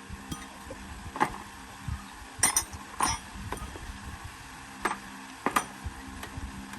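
Irregular metallic clinks and taps of hand tools on metal parts, about eight in all, some ringing briefly. The loudest come about a second and two and a half seconds in, over a low steady hum.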